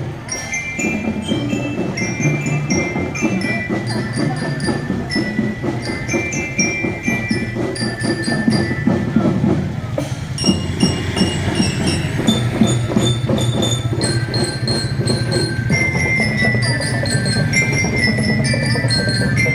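Marching drum band playing: a glockenspiel-type bell lyra carries a bright melody over continuous drumming.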